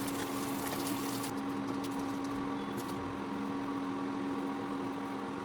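Steady mechanical hum of a small motor running, with a faint hiss.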